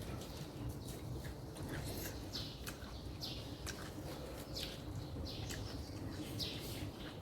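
A bird chirping over and over: short high calls that drop in pitch, about one a second, over a low steady rumble.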